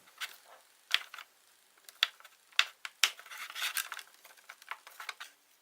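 Light clicks and taps of plastic toy dishes and utensils being handled, about five sharp ones spread through, with some soft rustling in between.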